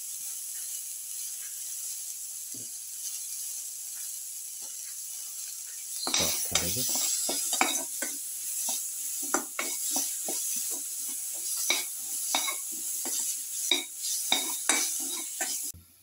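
Sliced onions, garlic and tomato pieces sizzling in hot oil in a metal pan, a steady hiss. From about six seconds in, a perforated steel skimmer stirs the food and scrapes against the pan with many quick clinks. The sound cuts off suddenly just before the end.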